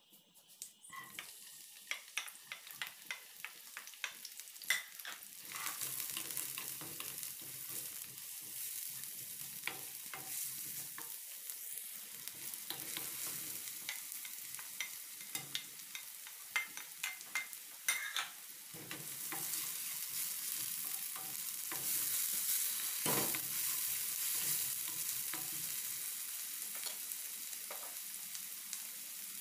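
Chopped onions frying in oil in a non-stick kadhai, sizzling, with many sharp clicks and scrapes of a spatula stirring them. Chopped tomatoes and green chillies are added partway, and the sizzle grows denser and louder about two-thirds of the way in.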